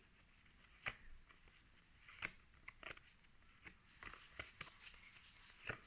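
Near silence with a few faint, brief clicks and rustles of paper phonics flashcards being handled and shuffled.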